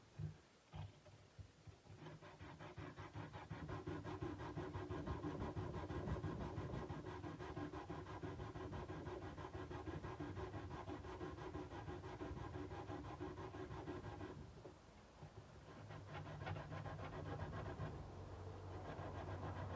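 Sandpaper rubbed back and forth along a kukri's steel blade in quick, rhythmic strokes, pausing briefly about three quarters of the way through.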